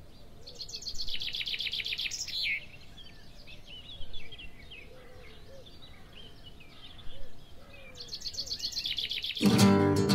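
Birds chirping, with a rapid high trill twice. About nine seconds in, cueca music starts loudly.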